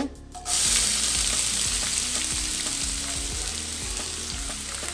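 Chopped onions dropped into hot oil with fennel seeds in a kadai, setting off a loud sizzle that starts suddenly about half a second in and eases off a little as it goes.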